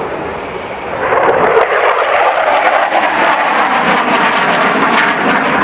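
Airplane flying past, a loud steady engine roar that swells about a second in.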